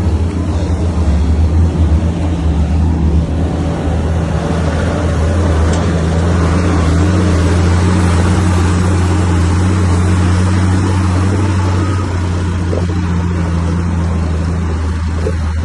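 Heavy diesel engine of earthmoving machinery running steadily, a constant low-pitched drone that holds the same pitch throughout.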